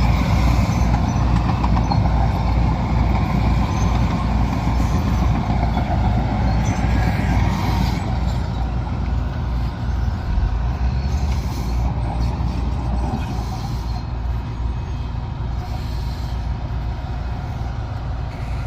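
Big four-wheel-drive farm tractor's diesel engine running steadily with a low, rhythmic throb, easing off slightly over the second half.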